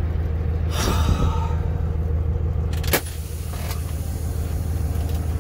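Semi truck's diesel engine running steadily with a low rumble. A short hiss comes about a second in, and a sharp click about three seconds in.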